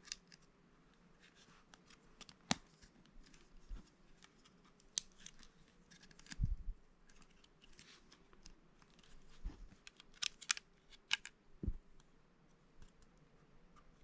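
Lego plastic bricks being handled and pressed together. Sharp irregular clicks and small taps of plastic on plastic, with a few soft dull thumps.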